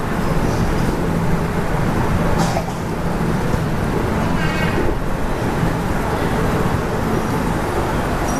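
Steady rumble and low droning hum of a metro train, heard from inside the carriage.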